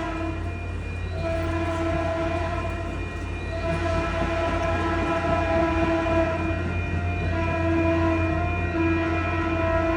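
EMD F40PH-2C diesel locomotive sounding its air horn in long chord blasts with brief breaks, over the steady low drone of its diesel engine as the train pulls in.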